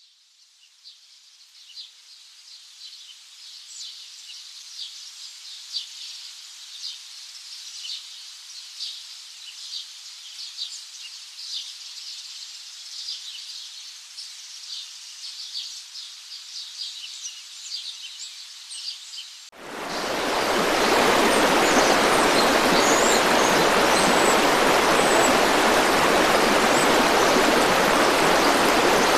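Small birds chirping and calling in a forest, fading in from quiet. About two-thirds of the way in, this cuts suddenly to the loud, steady rush of a flowing river or stream.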